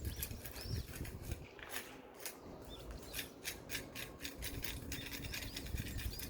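Hand scraper rasping against a concrete rooftop in quick, irregular strokes, scraping off lifted, peeling waterproof coating before a new coat is applied.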